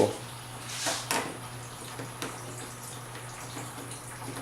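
A screwdriver or trim tool prying at a plastic bumper retaining clip: a short scraping rush ending in a sharp click about a second in, then a few faint clicks, over a steady low hum.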